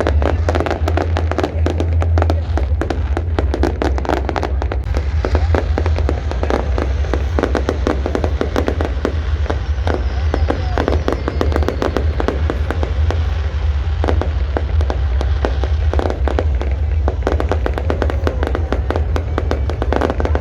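A fireworks display going off: many bangs and crackles in quick succession, over a steady low rumble.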